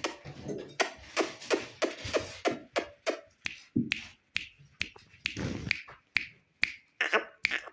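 Green ringneck parakeet making a quick, uneven series of short clicks and chirps, about two or three a second.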